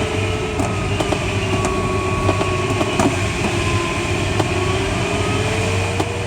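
Airflow rushing past the cockpit of a Schleicher ASK21 glider in flight, a steady noise. Under it runs a steady tone that sinks slowly in pitch and rises again near the end, with a few light clicks.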